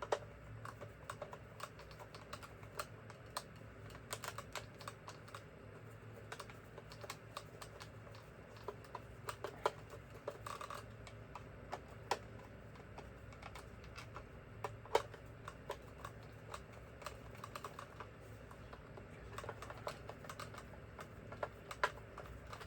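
Irregular small clicks and taps from handling the parts of a screwdriver set, with a few sharper clicks standing out.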